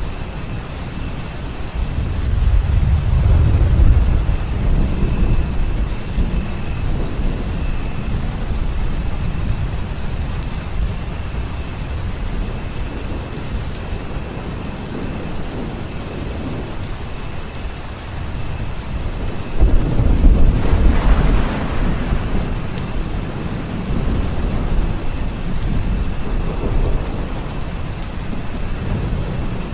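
Steady rain falling, with thunder rumbling deep and low twice: a few seconds in, and again, slightly louder, about twenty seconds in.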